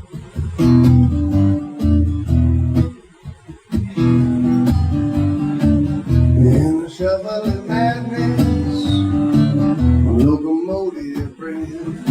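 Acoustic guitar strummed in a driving rhythm, playing a rock song's opening.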